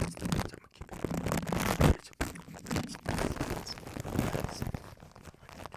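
Scratching and crinkling rubbed right against a microphone, in irregular strokes of crackly noise, with one louder scrape about two seconds in.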